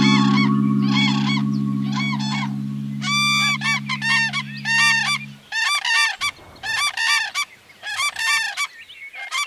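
A bird's honking calls, repeated one or two a second in a steady series, over a low sustained background-music chord that stops about halfway through.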